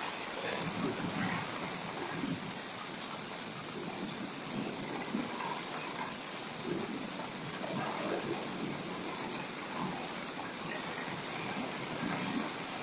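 Heavy rain falling on a deck, heard through a Ring security camera's microphone: a steady hiss with a few sharp drop taps scattered through it.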